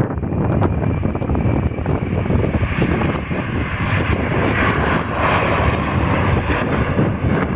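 Airliner's engines rumbling steadily as it passes the runway, growing stronger and brighter about halfway through.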